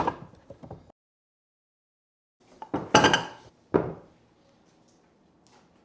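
Dishes and utensils knocking and clinking on a kitchen counter: a sharp knock at the start with a few light clicks, a short dead gap, then a brief scraping rattle about three seconds in and another sharp knock just after.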